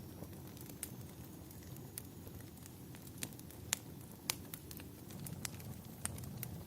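Wood fire crackling: irregular sharp pops and snaps over a low, steady rumble of flames, with the two loudest pops a little after three and a half and four seconds in.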